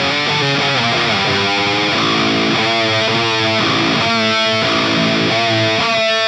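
Distorted electric guitar through a Soldano SLO-100 clone tube amp with the gain cranked, playing a run of chords struck one after another.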